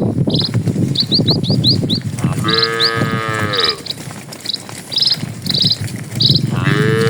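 Cattle calling: two long, high-pitched moos that rise and fall, one about two seconds in and one near the end. Short bird chirps repeat throughout over a low, steady background noise.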